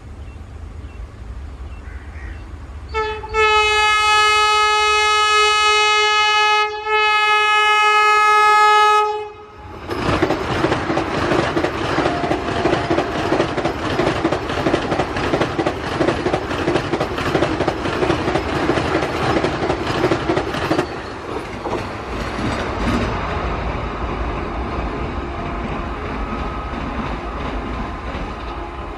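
Vande Bharat Express electric train sounding its horn in two long, loud blasts, with a short break between them. Then the train rushes past at high speed, its wheels clattering fast and evenly over the rail joints, and about two-thirds of the way through the sound drops to a quieter steady rumble.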